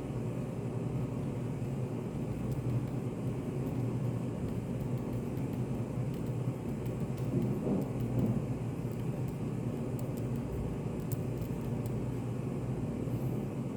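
Study café ambience: a steady low room rumble and hum, swelling slightly about halfway through, with a few faint light ticks later on.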